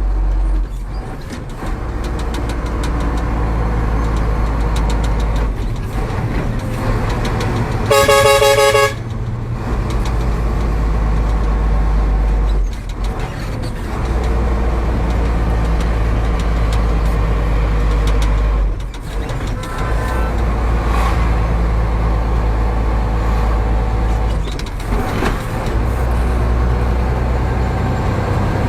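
Truck engine running steadily, with a horn blast lasting under a second about eight seconds in.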